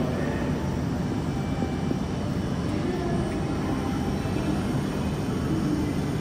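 E5 series Shinkansen standing at the platform, its onboard equipment giving a steady, even hum.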